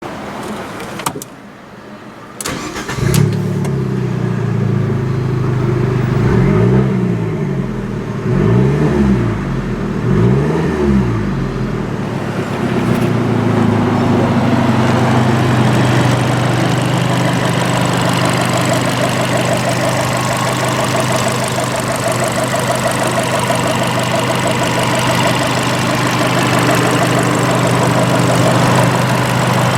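Abarth 695 Biposto's turbocharged 1.4-litre four-cylinder engine starting about three seconds in after a few clicks. It is blipped three times in quick rises and falls, then settles into a steady idle.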